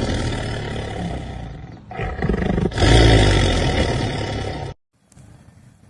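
A loud roar like a big cat's, in two long swells, the second louder, used as an opening sound effect. It cuts off suddenly near the end.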